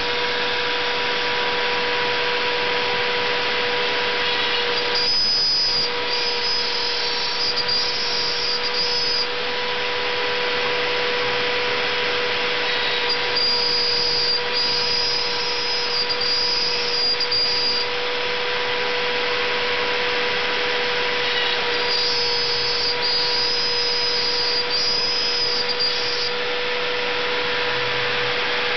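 CNC gantry router milling plywood: the spindle runs with a steady whine over cutting noise, and a higher-pitched whine comes in three times for a few seconds each.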